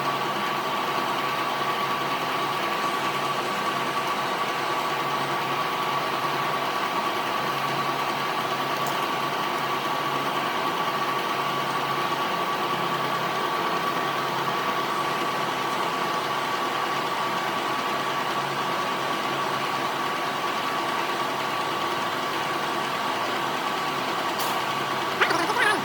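Workshop machinery running steadily, with a constant hum and a high steady whine. A brief, sharper, louder noise comes near the end.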